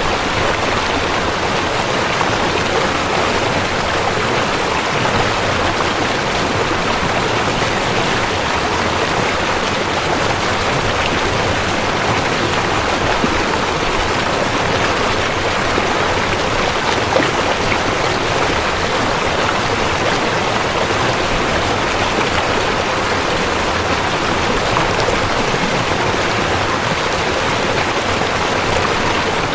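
Rushing river water: a loud, steady, unbroken rush.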